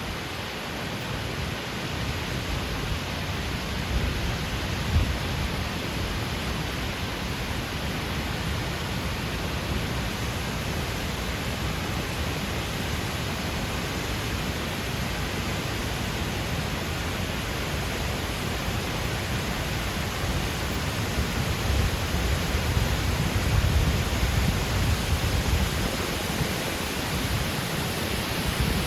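Steady rushing roar of a tall artificial waterfall pouring down a former quarry cliff, with a fluctuating low rumble underneath.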